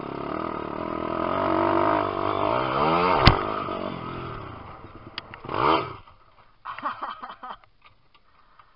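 Lifan 150cc single-cylinder four-stroke pit bike engine revving up under throttle, with a sharp crack about three seconds in, after which the revs fall away. A short rev comes just before six seconds, then the engine drops low with a few knocks and rattles.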